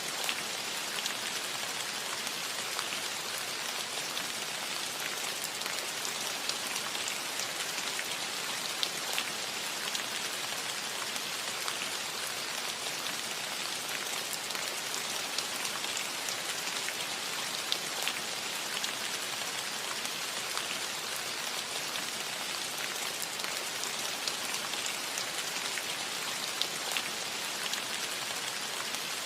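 Steady rain falling on a roof, an even hiss dotted with many small drop ticks.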